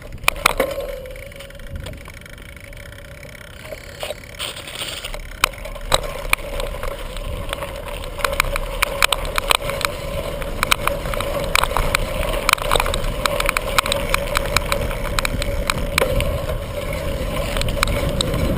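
Bicycle in motion: a low rolling rumble that grows louder as the bike picks up speed, with a steady whine and many sharp clicks and rattles from about six seconds in.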